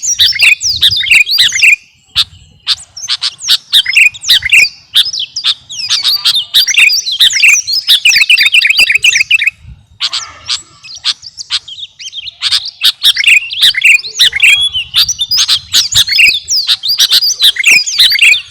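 Sooty-headed bulbul (kutilang) singing hard and without let-up. It gives rapid runs of sliding, chirping notes, broken by short pauses about two seconds in and about ten seconds in.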